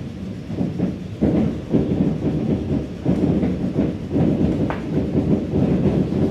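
ED4M electric multiple unit running along the track, heard from aboard: a steady low rumble with irregular wheel thumps and clatter over the rail joints, getting heavier about a second in.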